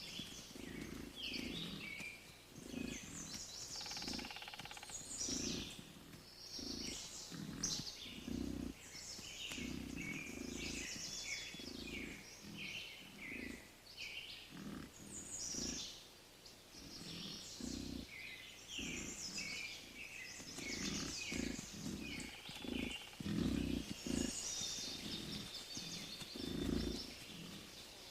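A herd of wood bison grunting in short, irregular low calls, over many birds chirping.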